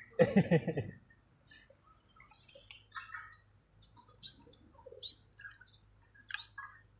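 A brief burst of a man's voice in the first second, then scattered short, faint bird chirps over a steady thin high-pitched whine.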